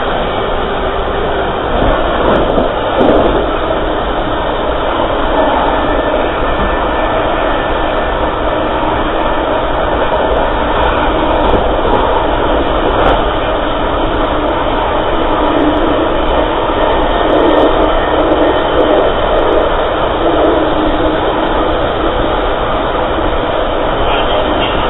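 Steady running noise of a moving passenger train on the rails, heard from on board.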